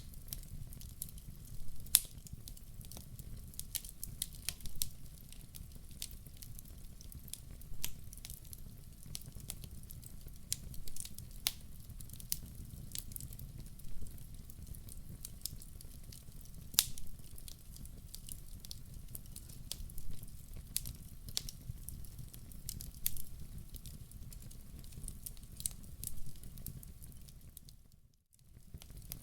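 Wood fire crackling in a fireplace: irregular sharp pops and snaps over a steady low rumble of flames. The sound cuts out briefly near the end.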